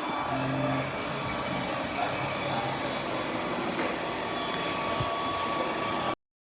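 Roborock Q10V+ robot vacuum running while it mops the floor: a steady whirring rush with faint high steady tones over it. It cuts off abruptly near the end.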